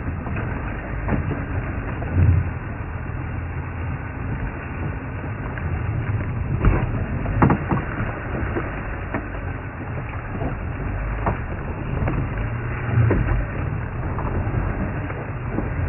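A safari vehicle's engine running steadily, with a few sharp cracks of branches snapping about halfway through.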